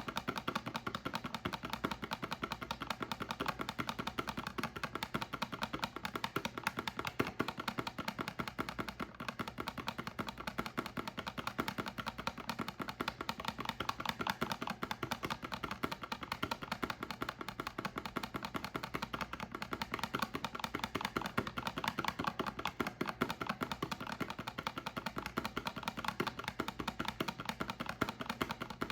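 Soap being handled close to the microphone: a dense, continuous run of fast, crisp little clicks and taps.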